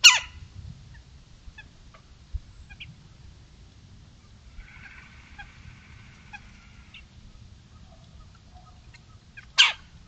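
Wild birds calling in woodland: one loud, sharp call right at the start and another near the end, with faint scattered chirps between them. A fainter band of overlapping distant calls runs for a couple of seconds in the middle.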